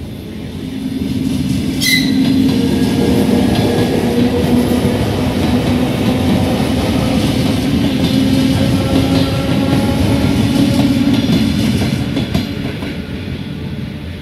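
Passenger train passing over a level crossing: the rumble and clatter of its wheels on the rails, with a steady low hum. It builds over the first couple of seconds, holds for about ten seconds and fades near the end. A single sharp click comes about two seconds in.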